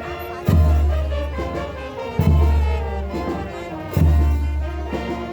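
Brass music playing, with a heavy deep bass note striking about every second and three quarters, three times, under sustained horn chords.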